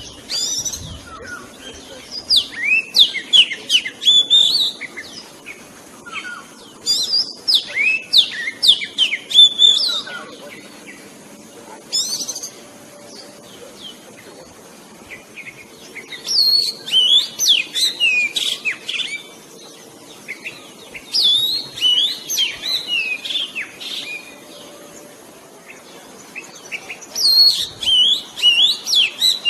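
Oriental magpie-robin singing: about six bursts of quick, varied whistled phrases, each a few seconds long, with pauses between.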